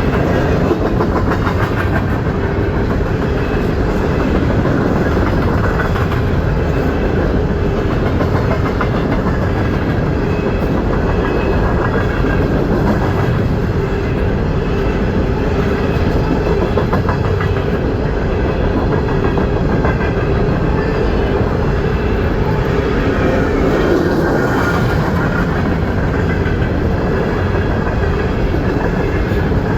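Train rolling past at close range, a steady loud rumble of steel wheels on rail with repeated clicking over the rail joints.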